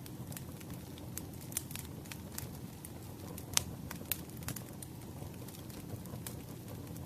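Wood fire burning: a steady low rumble of flames with frequent sharp crackles and pops from the firewood, the loudest pop about three and a half seconds in.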